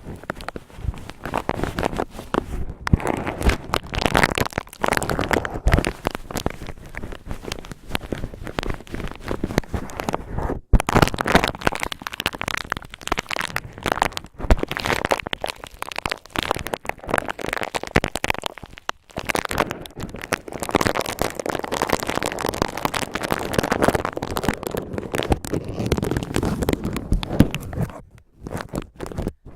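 Cotton ball rubbed and squeezed against the microphone, giving a dense, rough crackling and rustling full of small clicks, with a few short pauses.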